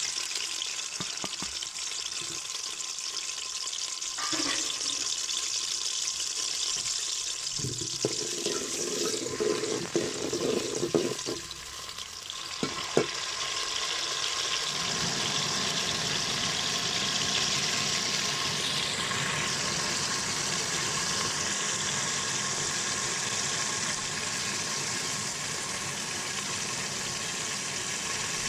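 Onions sizzling as they fry in hot ghee, with a few knocks and scrapes of a spoon against the pot in the first half. The sizzle becomes fuller and steadier about halfway through.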